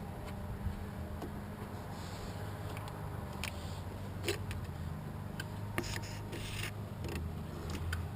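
Scattered small clicks and scrapes of hands and tools working in an engine bay, over a steady low hum.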